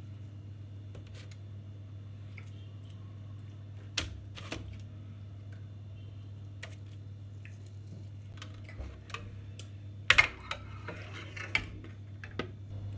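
Scattered light clicks and knocks of kitchen work over a steady low hum, with a short louder clatter about ten seconds in.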